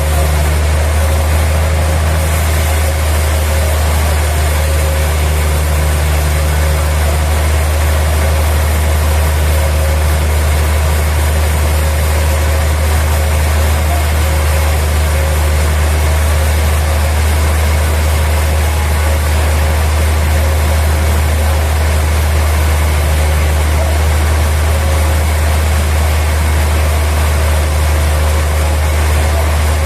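Sawmill machinery running steadily, a deep, unchanging engine drone.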